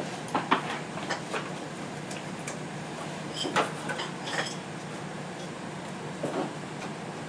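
Scattered small clicks, taps and scrapes of hands picking stuck cardboard off a refrigerator's caster, with a couple of sharper knocks near the middle.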